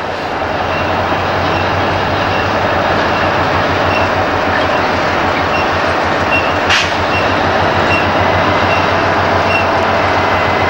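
Diesel-hauled freight train running past, a steady low engine drone under wheel and rail noise, with one sharp click about seven seconds in.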